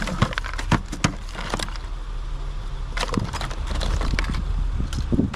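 Junk and debris being handled in a curbside pile: hard objects knocking and clattering in short bursts, several in the first second or two, again about three seconds in, and once near the end.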